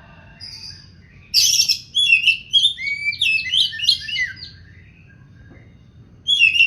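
Oriental magpie-robin singing in full song: a rapid run of whistled notes that sweep down and up, starting about a second and a half in and breaking off a few seconds later, with a new burst beginning near the end.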